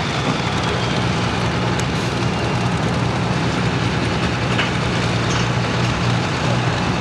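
Diesel engine of an altered farm pulling tractor idling steadily after a pull that ended early.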